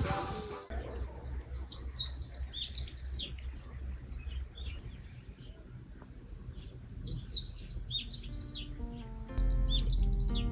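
Small songbirds chirping in short clusters of quick high notes, twice with a pause between, over a low steady rumble. Acoustic guitar music comes in near the end.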